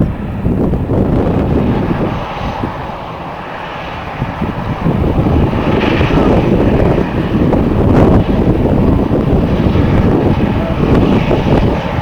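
Jet airliner engine noise mixed with strong wind buffeting the microphone; the sound eases a couple of seconds in and builds back up from about five seconds in.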